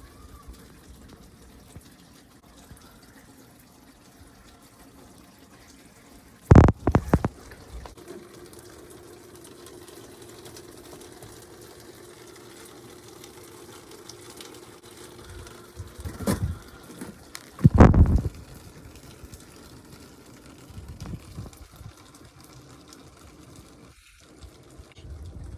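Storm runoff: rainwater trickling and splashing steadily, broken by loud thumps about a quarter of the way in and twice more around two-thirds of the way through.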